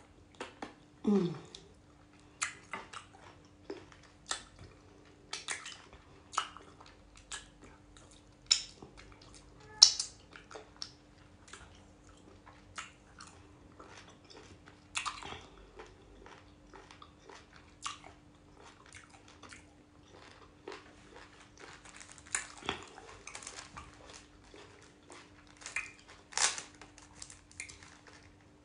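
A person eating pounded yam and black soup with meat, chewing close to the microphone: irregular wet mouth smacks and clicks, with a faint steady hum underneath.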